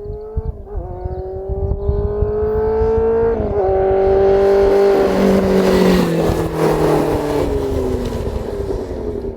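Kawasaki ZRX400's four-cylinder engine through a cut-down under-belly straight pipe, accelerating with a rising note and shifting up twice, a little under a second in and about three and a half seconds in. It then runs loud with a slowly falling pitch.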